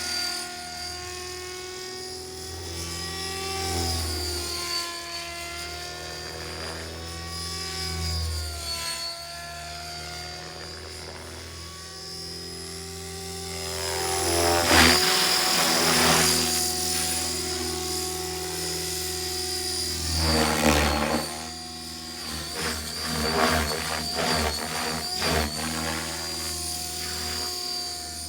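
Radio-controlled model helicopter in flight: the rotor and motor run with a high whine, their pitch drifting up and down as it manoeuvres. Louder rushing swells come about halfway through and again a few seconds later.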